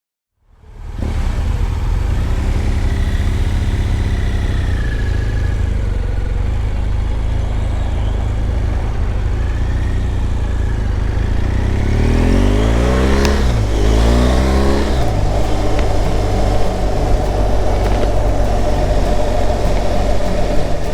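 Motorcycle at highway speed: steady wind and road rumble over the engine of a 2018 BMW R 1200 GS Adventure, a boxer twin. It starts after a moment of silence, and crossing pitch sweeps come in about two-thirds of the way in.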